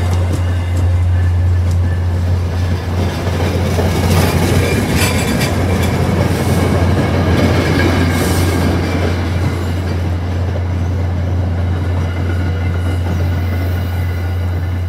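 Commuter rail passenger coaches rolling past close by, a continuous rail rumble over a steady low hum, with wheels clicking over the rail joints.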